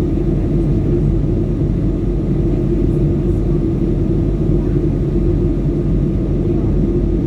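Steady drone of an airliner in flight heard inside the cabin: engine and airflow noise with a constant low hum.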